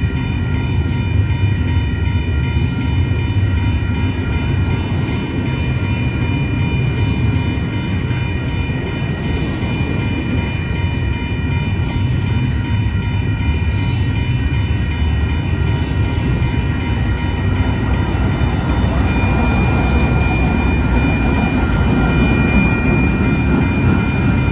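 Double-stack intermodal container train rolling past close by: a steady low rumble of wheels and cars. Several thin, steady high ringing tones run over it, and one of them grows louder near the end.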